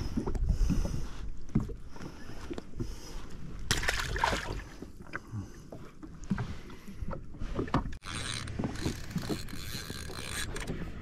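Wind buffeting the microphone and water lapping around a drifting jetski, with irregular noisy swells.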